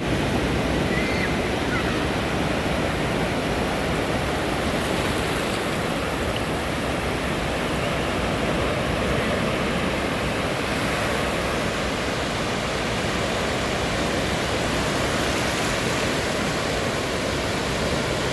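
Ocean surf breaking on a sandy beach: a steady, even wash of waves. Two faint, brief high chirps come about a second in.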